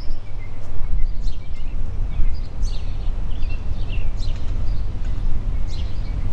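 Songbirds chirping, with short calls that sweep down in pitch, a few each second, over a loud, unsteady low rumble.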